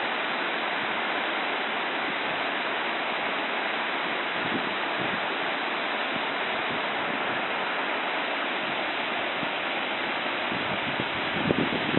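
Fast floodwater from a burst dam rushing steadily, with a few gusts of wind on the microphone near the end.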